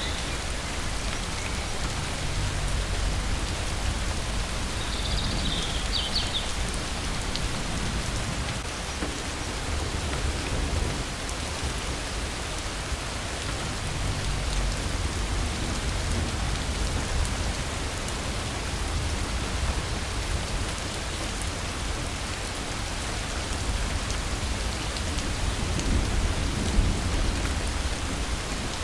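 Steady heavy rain falling, with low rolls of thunder swelling up several times. A short high chirp is heard about five seconds in.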